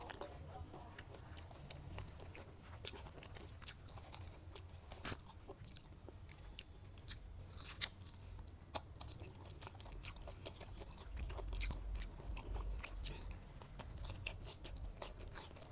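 A person biting into and chewing ripe jackfruit bulbs, with many small sharp mouth clicks scattered throughout.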